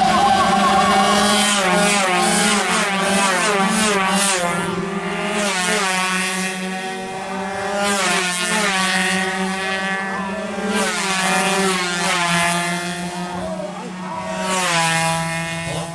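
116cc two-stroke underbone racing motorcycles revving hard through their gears, pitch climbing and dropping at each shift, as several bikes pass in turn. A steady low hum runs underneath.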